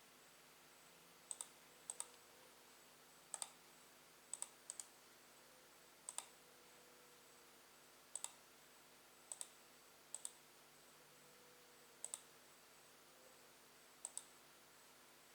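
About eleven sharp clicks at irregular intervals of one to two seconds. Each is a quick pair of ticks, like a computer mouse or touchpad button pressed and released, over a faint steady hum.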